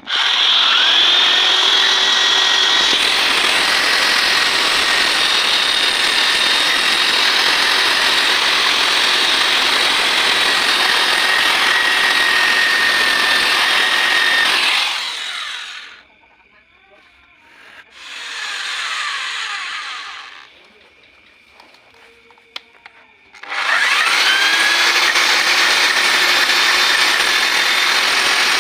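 Electric grinder spinning up and running with a steady high whine as it grinds an aluminum cylinder head clean before welding. About halfway through it is released and goes quiet, gives one short burst that winds down in pitch, then spins up again near the end.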